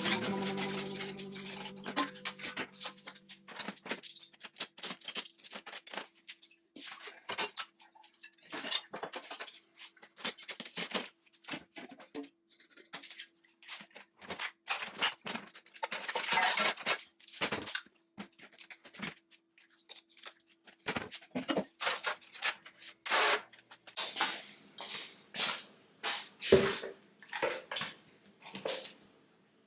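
Irregular handling noises, short knocks, clinks and scrapes like kitchenware being moved about, over a faint steady hum. A piece of music dies away in the first couple of seconds.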